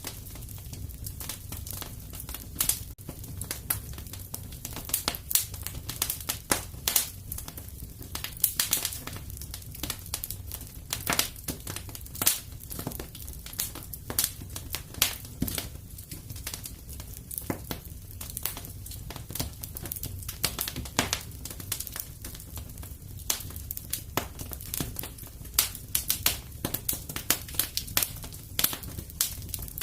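Wood fire burning in a fireplace: a steady low rumble with irregular crackles and sharp pops, several a second.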